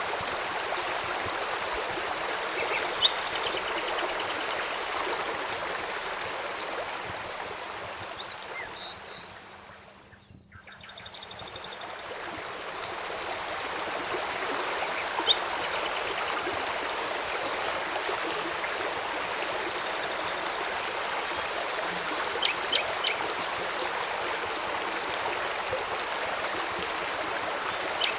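Steady rushing of a flowing river, with birds calling in short, rapid trills a few times over it. About ten seconds in the water sound briefly drops away almost completely, then swells back.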